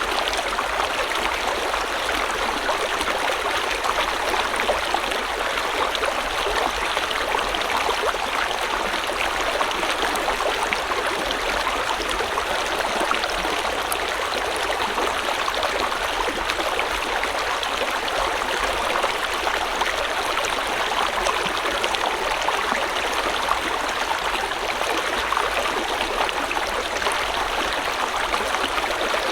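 River water flowing over stones, a steady, even rush with fine bubbling and trickling detail.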